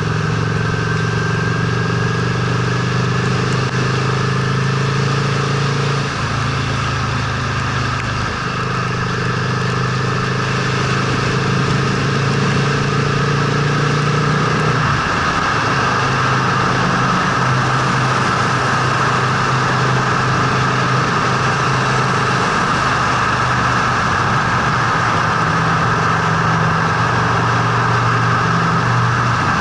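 Honda Steed V-twin motorcycle engine running under way. Its note holds steady, then steps to a new pitch several times, as when shifting gears, over a steady hiss of wind and road noise.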